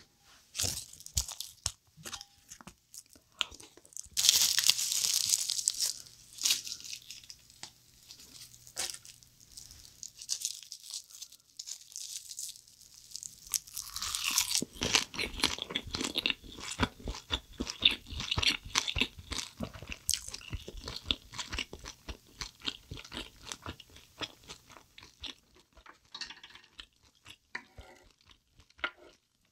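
Close-miked crunching and chewing of a bite of rice wrapped in toasted laver (gim), dense and steady through the middle stretch. A loud crisp crackle comes about four seconds in, with scattered small clicks and scrapes around it.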